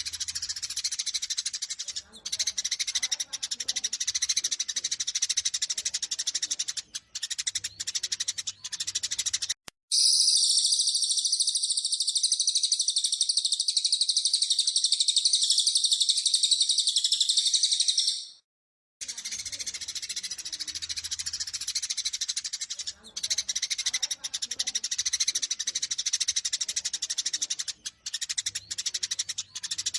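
Eurasian tree sparrows chattering in fast, excited fighting calls. A few seconds in, the chatter gives way to about eight seconds of a louder, unbroken high trill, then cuts to a brief silence. The sparrow chatter resumes after that.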